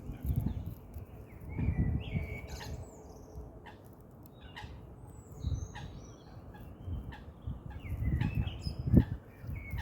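Birds chirping and calling in short, scattered notes, some gliding in pitch, over low rumbles, with one sharp knock near the end.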